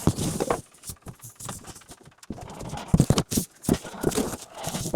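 Cardboard packaging of a new water heater being handled and pulled off: irregular knocks and scrapes.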